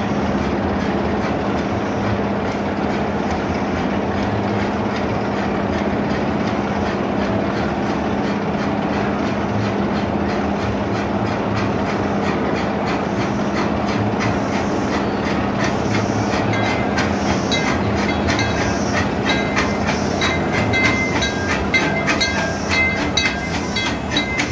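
Small steam train of the Grand Sierra Scenic Railroad approaching and pulling in: a steady rumble and hum. From about two-thirds of the way through come rapid clicks of the wheels over the rail joints and repeated short metallic ringing.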